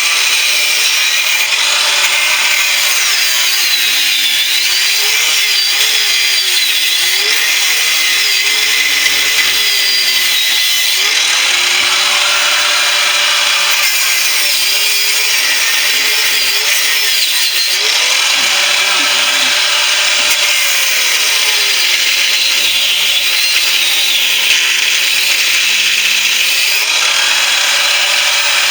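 Power tool with an abrasive cutting disc cutting through the steel shell of an air-conditioning compressor: a steady loud grinding with a whine that wavers up and down in pitch.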